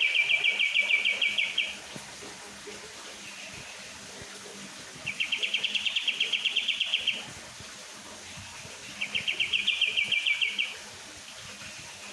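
Kapas tembak (pied triller) singing: three rapid trills of about ten notes a second, each lasting a second and a half to two seconds, a few seconds apart.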